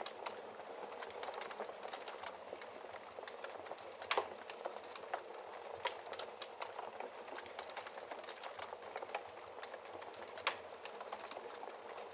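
Wood fire burning in a fireplace, crackling steadily with many small snaps and a few louder pops, the sharpest a little after four seconds and another about ten seconds in.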